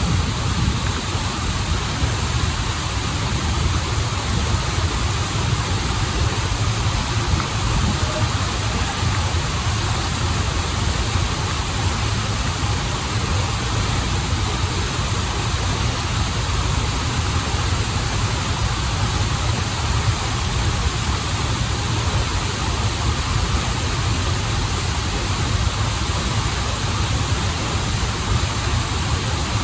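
Waterfall and stream water rushing steadily, a continuous noise with a deep rumble underneath.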